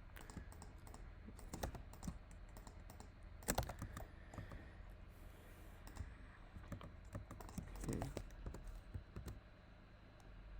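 Keystrokes on a computer keyboard, tapped at irregular intervals, with one louder key tap about three and a half seconds in.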